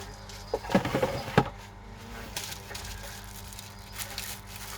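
A quick run of hard knocks and clatter, like objects being put down and handled on a counter, followed by fainter rustling.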